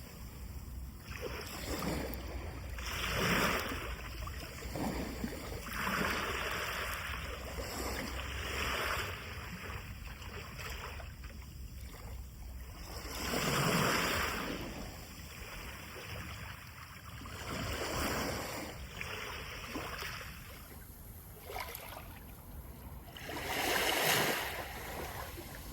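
Sea of Japan surf breaking on the shore: waves rush in as surges of noise every few seconds and wash back between them, the biggest two breaking about halfway through and near the end.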